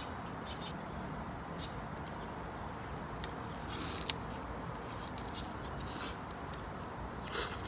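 Someone eating a fried-chicken hot wing: biting and chewing with wet mouth smacks, heard as a few short, sharp bursts, near the middle and toward the end, over a steady low background hiss.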